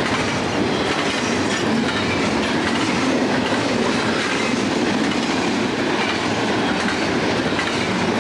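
A passing train's railroad cars rolling steadily along the rails.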